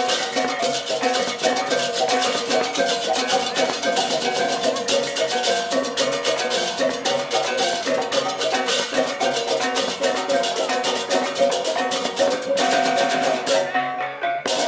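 Balinese gamelan playing: a dense, fast clash of cymbals and drums over a repeating pattern of metal gong-chime notes. The cymbals drop out briefly near the end.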